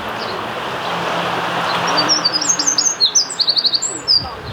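House sparrows chirping: quick high chirps and short rapid runs of notes starting about halfway through, over a steady background rush.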